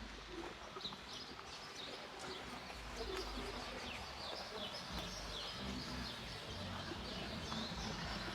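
Many birds chirping: a steady run of short, quick, overlapping calls that sweep downward, over a faint low rumble.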